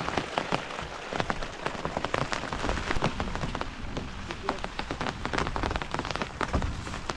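Steady rain falling, with many separate drops striking a surface close by at an irregular, rapid pace.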